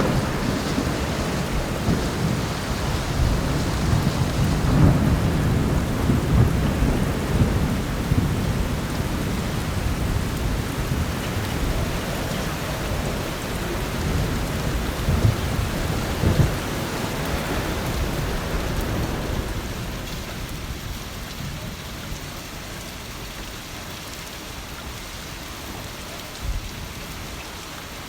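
Heavy rain falling steadily with rolling thunder rumbling low underneath, swelling now and then, then fading gradually over the last several seconds.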